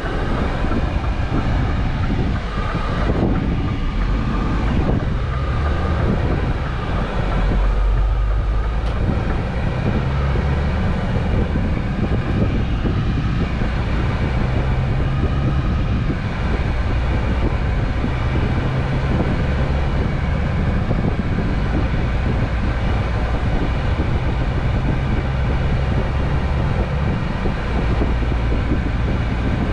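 Scania truck driving on the road, heard from inside the cab: the engine's steady low drone under an even rumble of tyre and wind noise.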